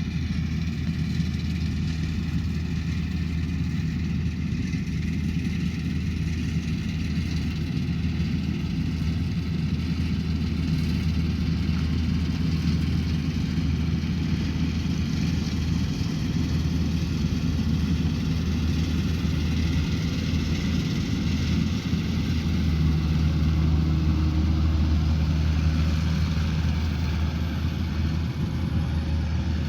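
Rice combine harvester's engine running steadily with a low hum and mechanical noise, slightly louder for a few seconds about three-quarters of the way through.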